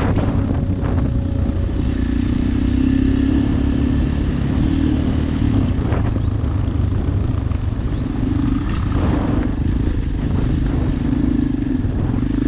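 Shineray XY250GY-6B 250 cc single-cylinder dirt bike engine running steadily, its note wavering slightly, with a few knocks.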